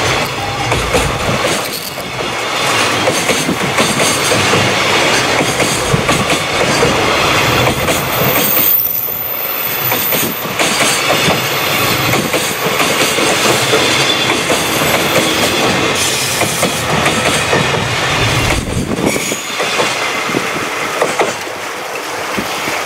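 Long freight train of wagons rolling past at speed, its wheels rattling and clattering over the rail joints in a steady run, with brief dips in the noise a few times.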